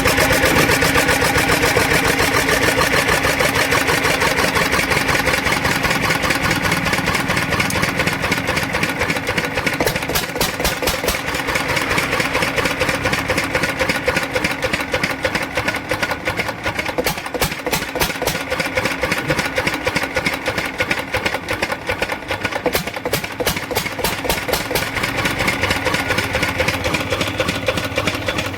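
An old water-cooled, twin-flywheel stationary engine running steadily with an even, rapid 'phat-phat' firing beat.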